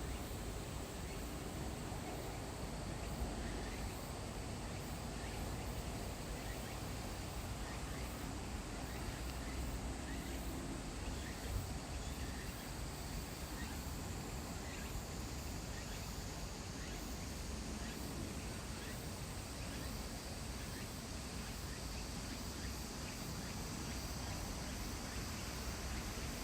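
Steady outdoor ambience: a low, even wind rumble with insects chirping steadily high above it.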